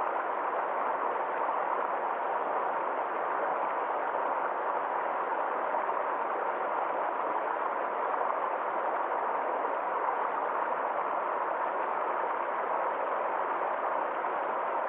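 Stream water flowing over a small waterfall: a steady, unchanging rush of water.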